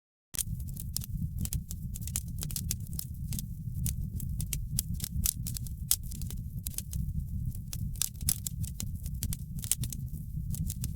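Wood fire crackling, with frequent irregular sharp pops and snaps over a steady low rumble. It cuts in after a brief dropout of total silence at the very start.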